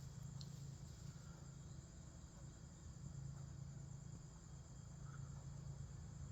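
Steady high-pitched chirring of crickets and other insects in a warm-climate night chorus, over a low steady hum.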